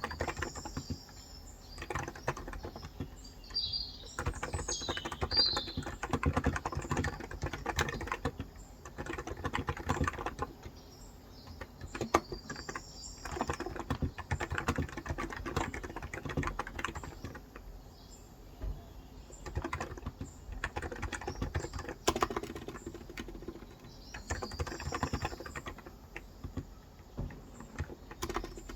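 Typing on a Cox Endeavor electro-capacitive (Topre-style) 35 g tenkeyless keyboard: dense runs of keystrokes broken by short pauses. Birds chirp now and then, most clearly a few seconds in, again near the middle and near the end.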